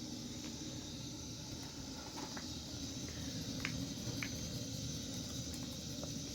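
Steady low rumble and hiss with a few faint, scattered clicks.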